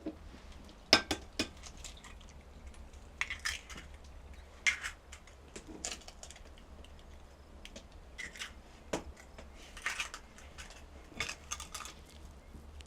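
Irregular clicks and light knocks, a few at a time, with short scraping or rustling clusters between them; the sharpest knock comes about a second in.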